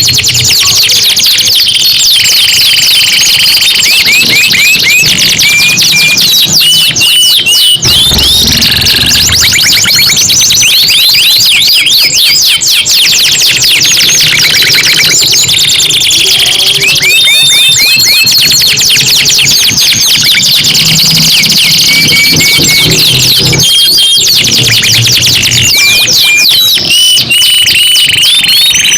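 Domestic canaries singing loudly and continuously: fast rolling trills of rapidly repeated high notes, broken by short held whistled notes.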